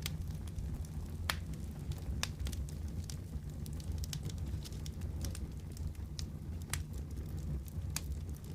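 Wood fire crackling in a fireplace: a steady low rumble of the flames with frequent irregular sharp pops and snaps, a few louder ones standing out.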